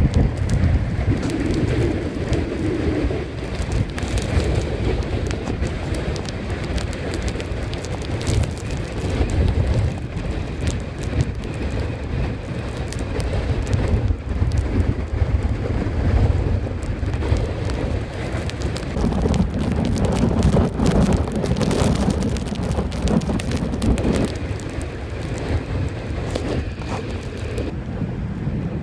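Strong wind buffeting the microphone over the rushing noise of the sea, with a heavy low rumble and a constant crackle.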